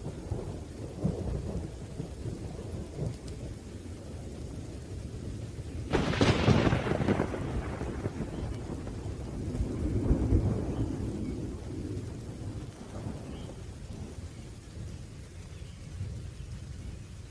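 Thunderstorm: low rolling thunder over steady rain, with a sudden sharp thunderclap about six seconds in that fades over a second or two, and another swell of rumbling a few seconds later.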